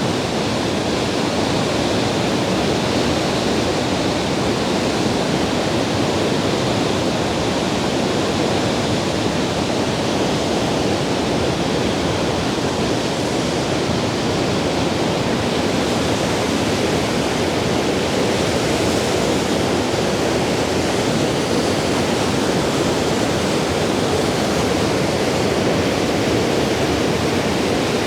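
Plodda Falls, a 46-metre waterfall in spate after heavy rain, thundering steadily into its gorge: a loud, constant rush of falling water with no letup.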